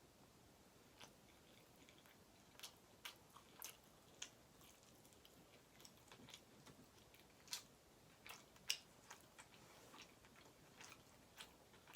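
Close-miked chewing: faint wet mouth clicks and smacks at irregular intervals, with a sharper click about nine seconds in.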